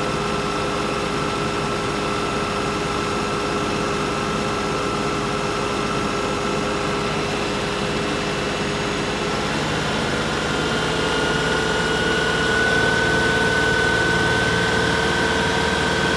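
Diesel engine of an LS XR3135 compact tractor running steadily, its speed rising a little and getting slightly louder about ten seconds in, then holding.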